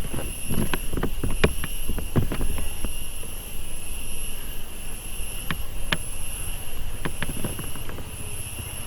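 Wind rumble and handling noise on a phone microphone, with a scatter of sharp clicks and knocks, loudest in the first couple of seconds. Behind it runs the steady high-pitched drone of cicadas, in two unbroken pitched bands.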